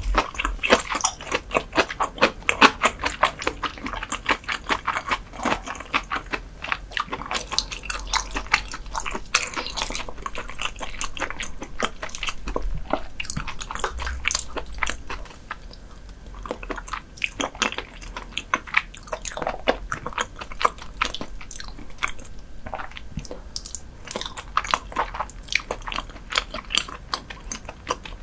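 Close-miked chewing of raw herring: a dense run of quick, sharp chewing clicks, with short lulls a little past halfway and again later.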